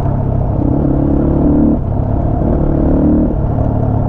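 Motorcycle engine running while riding, a steady low drone with a clearer pitched note coming in twice, as the throttle is opened.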